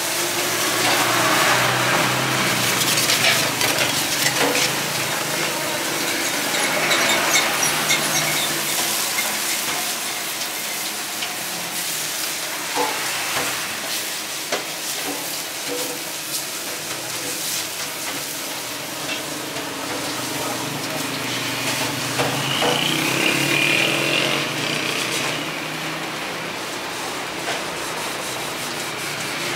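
Street-food cooking: food sizzling on a hot griddle, with frequent short clicks and clatter of utensils. Some voices and engine sound lie underneath.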